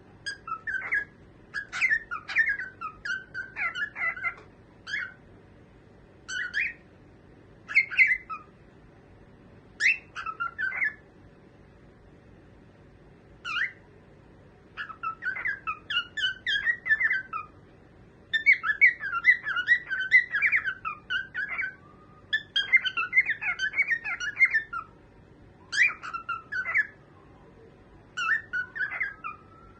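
Cockatiel chirping in bouts of quick, repeated chirps with short pauses between them; the densest runs of chirps come in the second half.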